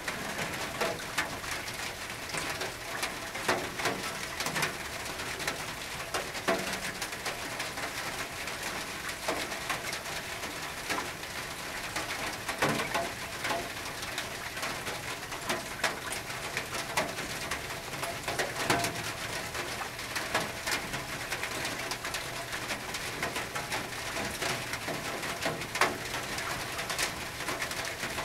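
Rain on a tin roof: a steady hiss of rainfall with frequent irregular sharp taps of drops striking the metal.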